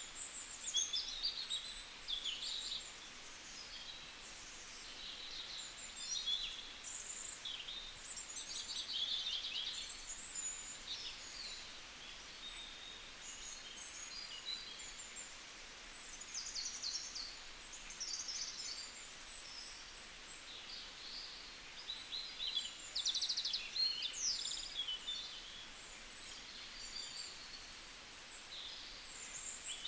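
Several small birds chirping and trilling, with short high calls and quick stuttering runs of notes following one another over a faint steady hiss.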